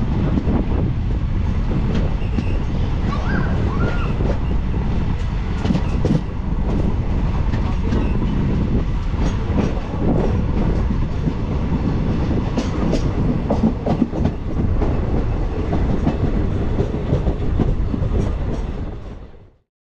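Passenger train running, heard from a window of one of its coaches: a steady rumble of wheels on rail with irregular clatter and clicks over the rail joints. It fades out near the end.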